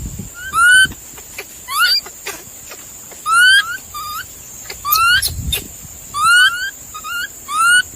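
An animal giving repeated short, squeaky calls, each rising in pitch, some in quick pairs, about one a second.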